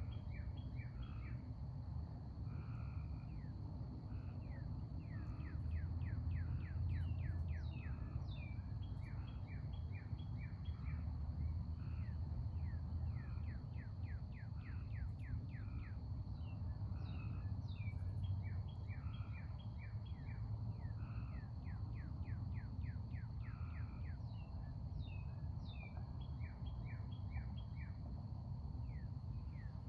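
Backyard songbirds chirping: many short, downward-sliding chirps in quick runs throughout, over a steady low rumble and a faint, steady high tone.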